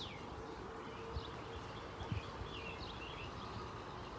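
Faint, distant birds chirping in short scattered calls over a steady low outdoor rumble, with two soft thumps about a second and two seconds in.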